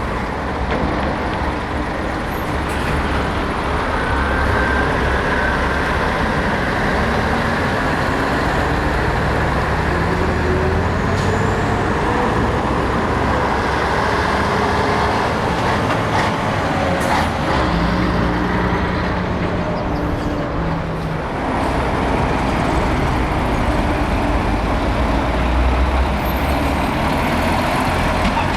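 Heavy diesel trucks driving past, several engines running at once, their pitch slowly rising and falling as they pull away and slow down.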